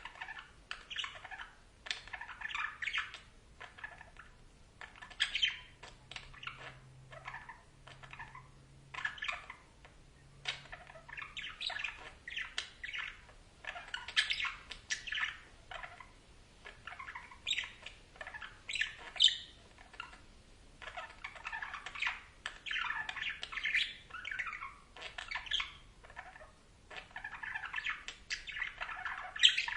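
Budgerigars chattering: a continuous run of short chirps, warbles and squawks with only brief pauses.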